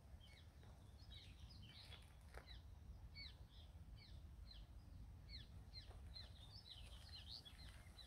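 Faint, quick chirping of small birds: many short, high calls, each dropping in pitch, several a second, over a low background rumble.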